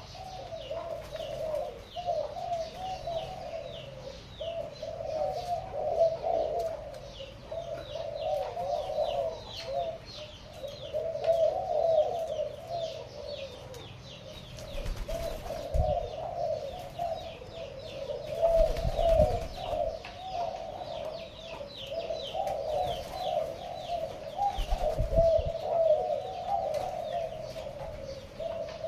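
Pigeons cooing over and over, overlapping, with a steady run of short high chirps or peeps above them. A few low thuds come in the second half.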